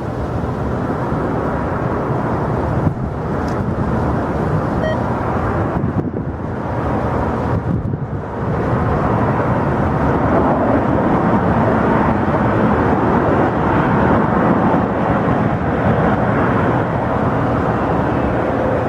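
Jet airliner engine noise: a steady, loud rush that grows louder after about eight seconds.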